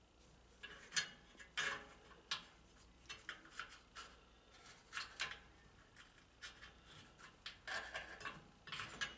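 Scattered light clicks, knocks and scraping of vending-machine rotor and gearbox parts being handled and fitted by hand, the sharpest knock about a second in.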